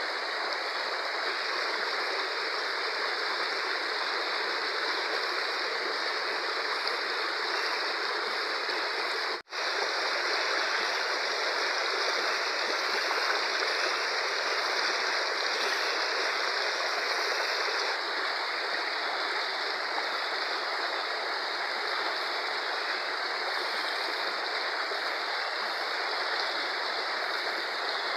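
Fast-flowing river rushing steadily, a dense even roar of water that cuts out for an instant about nine seconds in.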